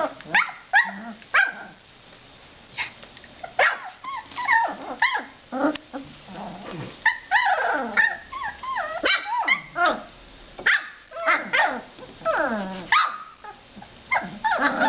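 A litter of three-week-old puppies yipping and whining: many short, high cries, often sliding down in pitch and overlapping one another.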